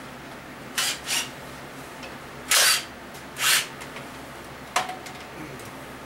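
A tool working on an engine during teardown: four short, noisy bursts, the last two longer and louder, then a single sharp click.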